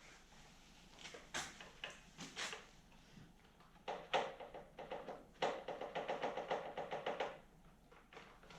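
Small parts of a snowblower carburetor clicking and knocking as they are handled and fitted together: a few separate knocks, then a rapid run of about seven clicks a second for roughly two seconds past the middle.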